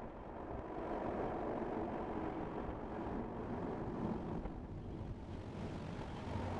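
Steady road and tyre noise of a 2023 Tesla Model Y electric car driving, with no engine note.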